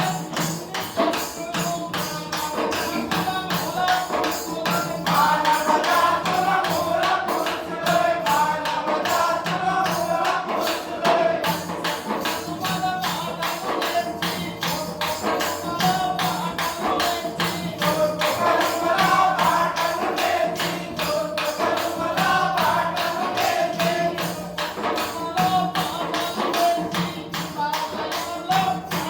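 A man singing a song over a fast, steady percussion beat, with a low tone held underneath.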